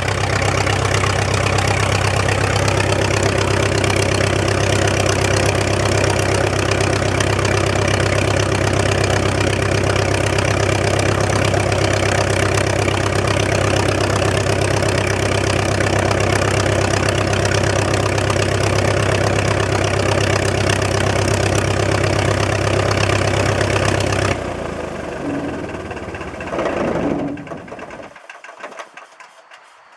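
de Havilland Canada DHC-1 Chipmunk's inverted four-cylinder Gipsy Major piston engine running at a steady speed, then cut about 24 seconds in, the propeller winding down to a stop over the next few seconds.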